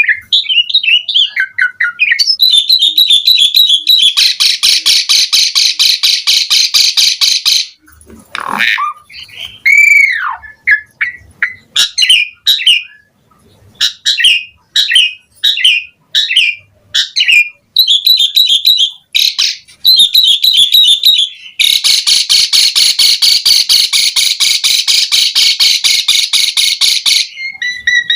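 Pied starling (jalak suren) singing: quick chattering phrases of short notes, two long harsh rattles, one about four seconds in and another about twenty-two seconds in, and a whistled note that rises and falls away about ten seconds in.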